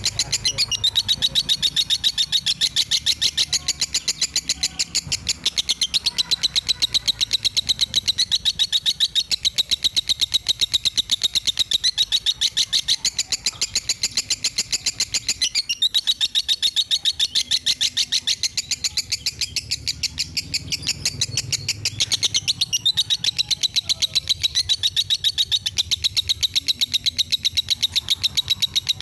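Songbird tutor song: a bird chirping in a fast, unbroken run of repeated high notes, many to the second, with short breaks about 16 and 22 seconds in.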